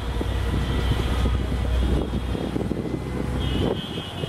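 Low, steady drone of a diesel-hauled passenger train running away along the track, with irregular rattling from the wheels and coaches. The drone drops off sharply a little before the end.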